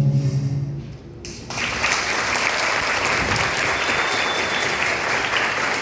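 The music's last held note dies away, and about a second and a half in an audience breaks into steady applause.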